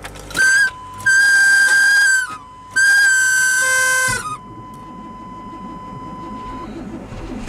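1996 GMC Sierra pickup's starter motor whining at a high steady pitch in three bursts as the key is turned in deep cold. The whine rises as each burst starts and falls off as it stops, and the engine does not catch. The owner says the starter goes weird and either needs to be shimmed or something's getting worn.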